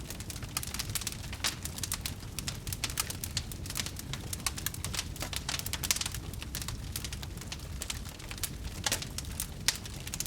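Fire crackling: dense, irregular pops and snaps over a low steady rumble.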